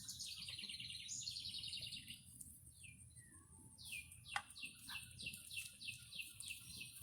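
Birds chirping faintly: a quick trilled run of high notes, then a steady series of short falling peeps, about three a second. A brief faint knock about halfway through.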